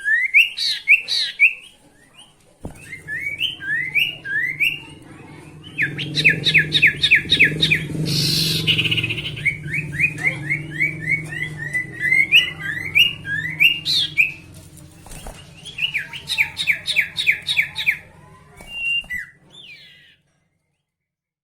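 Sirtu bird singing hard, in fast runs of short, sharp rising chirps with a harsh rasping note in the middle. A low hum lies underneath for much of it.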